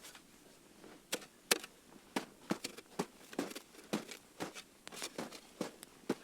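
Wood campfire crackling, with sharp, irregular pops and snaps coming two to three times a second from about a second in.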